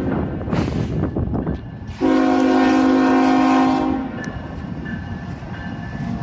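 Freight locomotive's air horn sounding a loud chord for about two seconds, a couple of seconds in, over the steady rumble of the passing train.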